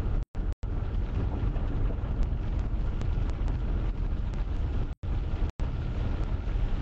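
Steady low road and engine rumble heard from inside a moving car's cabin. The sound cuts out for split seconds twice near the start and twice about five seconds in.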